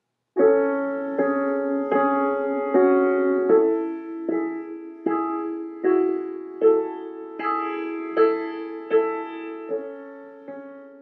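Slow, gentle solo piano music, single notes and chords struck about every three quarters of a second, each ringing and fading.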